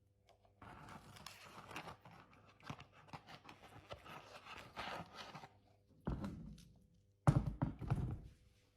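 Rustling and scraping of things being handled, with many small clicks, then two heavy thuds about a second apart, the second the loudest.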